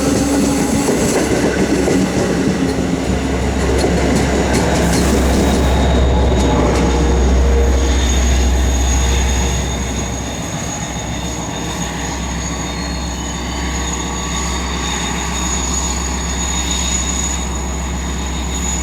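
Long Island Rail Road diesel push-pull commuter train rolling slowly past, wheels clicking over the rail joints over a heavy low rumble. About six seconds in, a steady high-pitched wheel squeal sets in and holds, while the rumble eases about ten seconds in.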